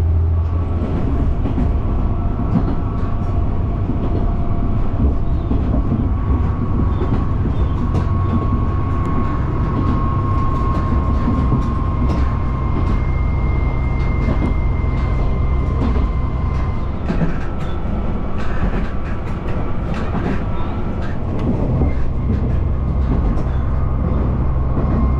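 Nagara River Railway diesel railcar running along the line: a steady low drone with many light clicks from the wheels over the track, and a thin steady whine above.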